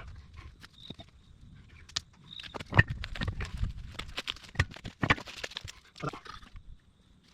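Irregular metal knocks and clunks from fitting a mini excavator's blade and lining up its pivot pin holes, with a low rumble and the loudest knocks about three seconds in.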